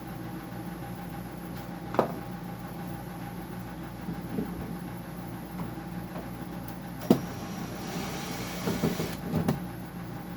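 Steady electrical machine hum from a running appliance, with a sharp metallic click about 2 s in, another about 7 s in, and a short cluster of small knocks and a brief hiss near the end as parts and screws are handled during disassembly.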